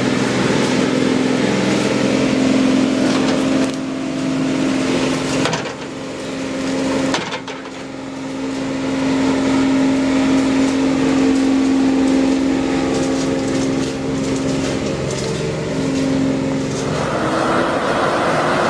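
A vehicle engine running hard under load at a steady pitch. It eases off briefly about a third of the way in and picks up again, and near the end a harsher, higher rushing noise joins it.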